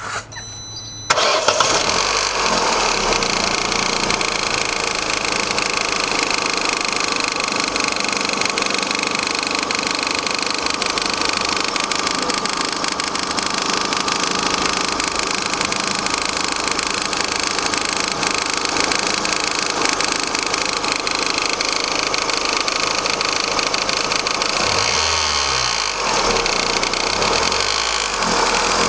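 Vauxhall Astra mk4 1.6 16v petrol engine starting about a second in, then idling steadily with a rapid tapping and vibrating noise running through it, the unexplained fault being traced at the cam pulleys and timing belt.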